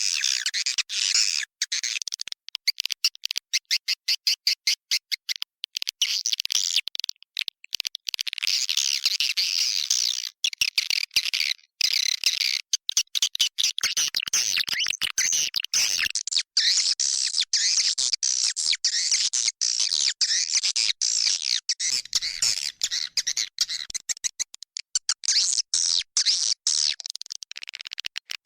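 Swiftlet calls from a swiftlet-house lure recording, the roosting call used to draw swiftlets in to stay: high-pitched twittering chatter. About two seconds in comes a run of rapid, evenly spaced clicks, several a second, then dense twittering broken by short gaps.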